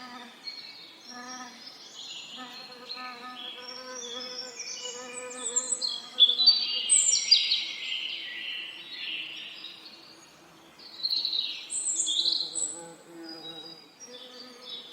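Several songbirds singing in quick overlapping twittering phrases, loudest about halfway through and again near the end, over the steady hum of bees buzzing close by.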